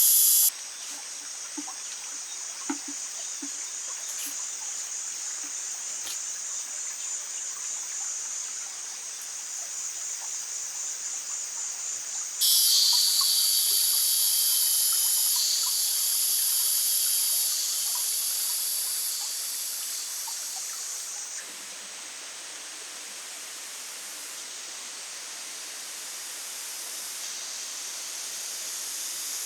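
A high-pitched insect chorus of crickets or similar, steady and dense. It changes abruptly in pitch and loudness about twelve seconds in and again about twenty-one seconds in.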